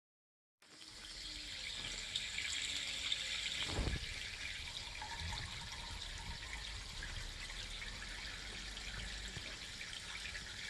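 Water running steadily with a hissing rush, starting just after a brief silence, with a single knock about four seconds in.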